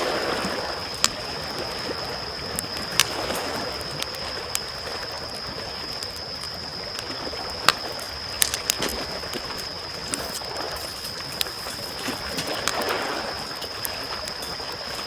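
Small waves washing gently onto a shore, swelling every few seconds, with a wood campfire crackling in sharp, scattered pops. A steady high-pitched tone runs underneath.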